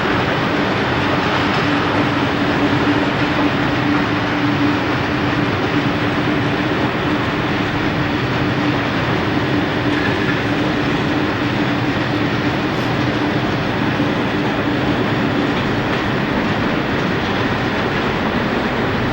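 Diesel train running past on the track: a steady engine hum over loud wheel and rail noise. The hum drops away about three seconds before the end.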